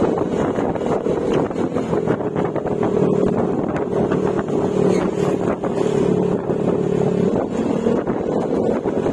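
Yamaha Mio Gravis 125 cc single-cylinder scooter engine running through an aftermarket Akrapovic exhaust with silencer, at a steady cruising note with wind rushing over the microphone. The engine note fades about seven seconds in.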